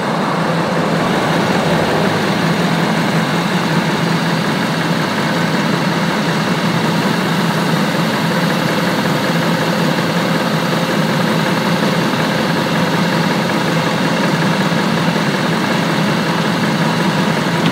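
Cadillac Northstar V8 idling steadily under the open hood, with the air conditioning on while refrigerant is added from a recharge can. The system is low on refrigerant, and a small leak is suspected.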